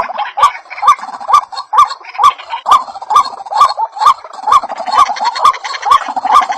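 White-breasted waterhen calling: a steady, rapid series of harsh rising "kruak" notes, about two a second, each starting with a sharp click.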